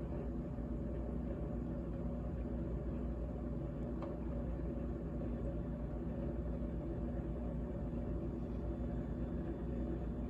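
GE GTH18XCTZRBB top-freezer refrigerator running with a steady low hum and rumble, with one faint tick about four seconds in.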